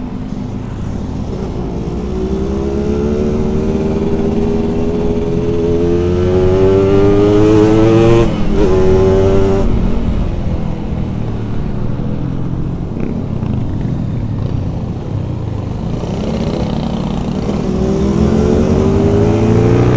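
Yamaha RX-King's two-stroke single-cylinder engine at full throttle, revs climbing over several seconds, with a short break at a gear change about eight seconds in. The revs then fall back and climb again near the end.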